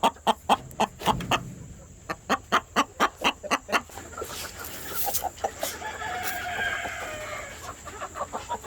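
Chickens clucking in quick short notes, about four a second, then a long drawn-out call from a rooster crowing in the second half.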